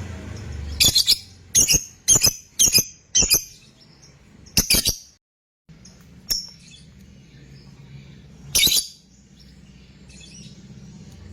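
Lovebird giving short, shrill calls: five in quick succession, about one every half second, then a few more spaced seconds apart. The sound cuts out completely for a moment near the middle.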